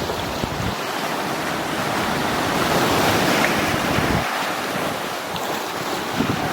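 Ocean surf on a beach: a wave breaking and washing up, swelling about halfway through and then easing, with wind gusting on the microphone.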